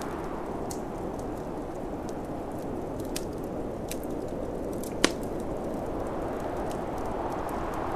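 Wood fire crackling and popping in a fireplace, with scattered sharp snaps and one loud pop about five seconds in, over the steady low rush of snowstorm wind.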